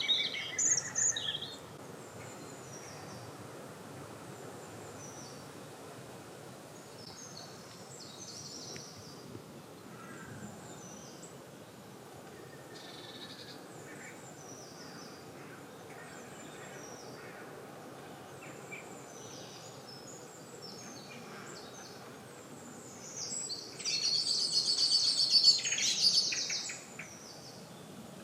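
Spring garden birdsong: several birds calling and singing over a steady outdoor background hiss, with a loud song phrase at the start and a loud, rapid burst of song near the end.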